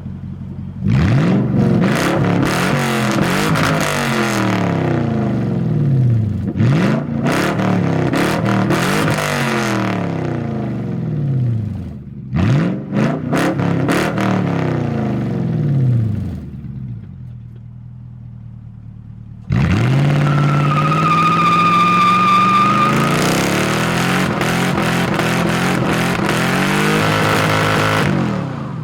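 Lexus SC400's 4.0-litre V8 (1UZ-FE) revved through a loud aftermarket exhaust, cats retained. Three sharp blips, each climbing fast and falling back, then a long hold at high revs of about eight seconds that drops away near the end.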